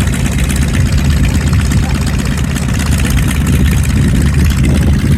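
Grumman Wildcat fighters' radial engines running at taxi power, a loud, steady, low rumble of propeller aircraft rolling out.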